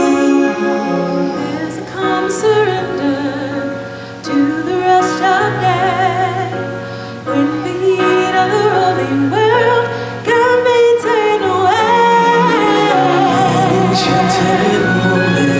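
A solo singer holding long notes with strong vibrato over orchestral show music.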